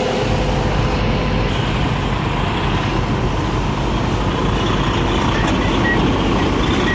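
Semi truck's diesel engine running steadily as the truck backs slowly, a constant low rumble. A few faint short high beeps come in near the end.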